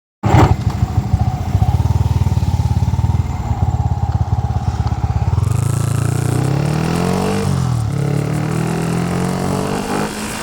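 Yamaha Vixion single-cylinder four-stroke engine, bored out to 177 cc and breathing through a stock muffler with its insides gutted, idling with an uneven pulsing beat. About five seconds in it is revved up, drops back briefly, then rises again.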